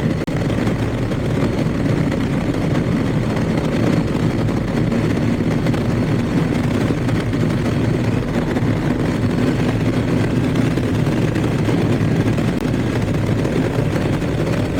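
BMW R1250GS motorcycle's 1254 cc boxer twin running steadily at road speed, mixed with a steady rush of wind and road noise.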